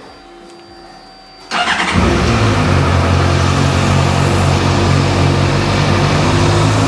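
2011 Honda CBF600's inline-four engine is cranked on the electric starter about a second and a half in. It catches almost at once and settles into a steady idle.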